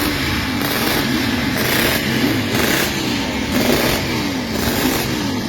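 Several motorcycle engines running together, their revs rising and falling again and again.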